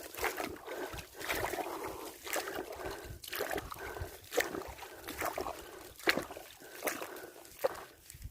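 Water splashing and sloshing, with scattered irregular knocks and clicks.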